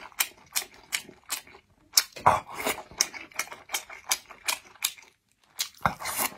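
Close-miked chewing with wet mouth smacks and clicks, about three or four a second, pausing briefly twice; the food is a dumpling dipped in broth and fatty braised meat.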